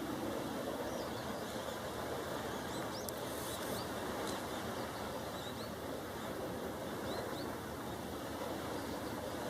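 Steady outdoor background noise with faint, short, high bird chirps, several in the first half and a few more near the end.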